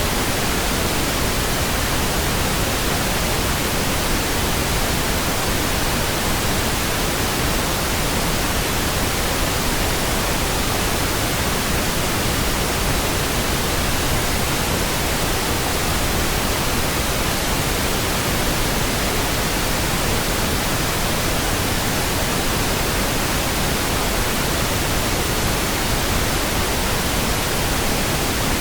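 Steady pink noise: an even, unchanging hiss spread across all frequencies, with no tones or sudden sounds.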